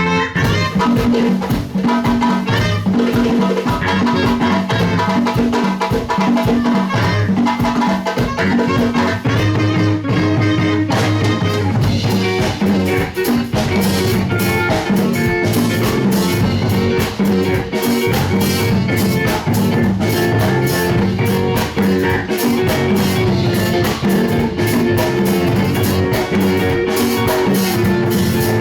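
Live band playing Latin dance music with a drum kit, growing fuller and brighter about a third of the way in.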